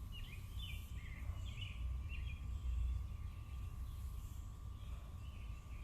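Birds chirping, a quick run of short calls in the first two seconds and a few fainter ones near the end, over a low rumble and a faint steady hum.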